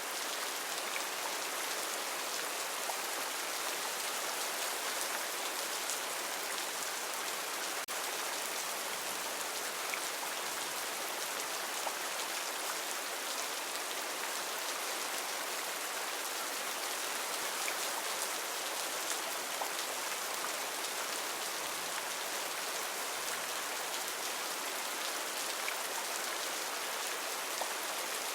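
Steady heavy rain falling on foliage, a dense even hiss with scattered individual drops.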